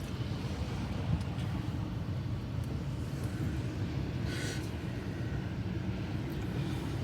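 Steady low road and engine rumble inside a moving car's cabin on snowy roads, with a brief hiss about four seconds in.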